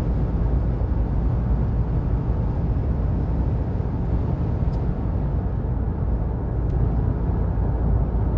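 Vehicle driving along a highway: a steady low rumble of road and engine noise, with two faint ticks a couple of seconds apart near the middle.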